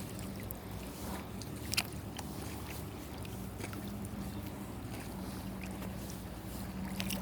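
Quiet water and hull sounds from a kayak on a lake, with a few faint knocks over a steady low hum.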